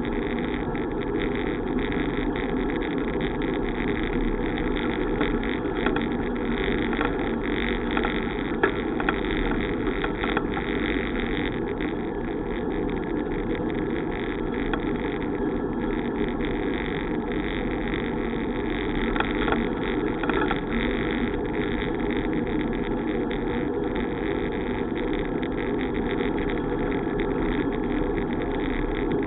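Steady rushing wind and road noise from a bicycle in motion, as picked up by the camera riding along. A few brief knocks stand out, the loudest about nine seconds in.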